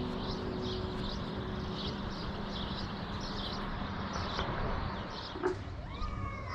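A small bird chirping over and over, about two short high chirps a second, over a steady outdoor background hiss.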